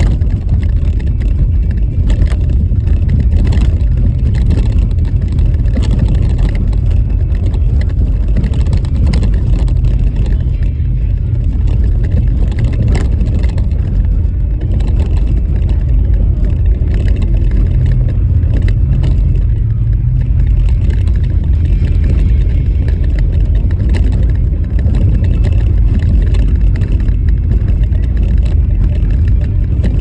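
A car driving on a rough, rutted snowy road: a loud, steady low rumble of tyres and engine, with frequent small knocks and rattles from the bumpy surface.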